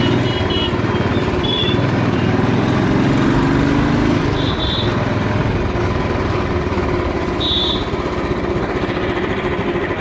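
Old Royal Enfield single-cylinder motorcycle engine running steadily while riding, heard from a chest-mounted camera, with a slight rise in engine pitch a few seconds in.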